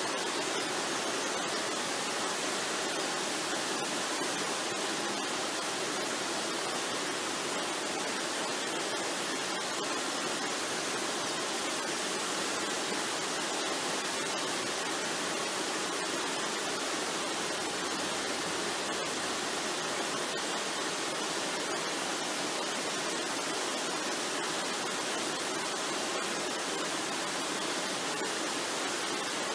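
Waterfall: water rushing in a steady, unbroken hiss.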